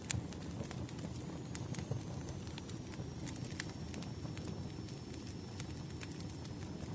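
Wood fire crackling: a steady low rumble of burning logs with irregular sharp pops and snaps, one of the louder pops just after the start.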